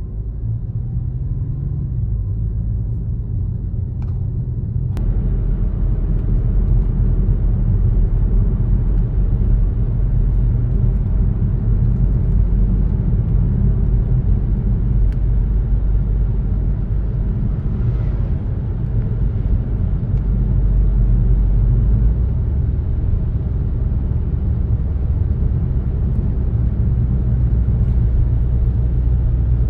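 Car driving along a road: a steady low rumble of engine and tyres, with a brighter hiss coming in suddenly about five seconds in.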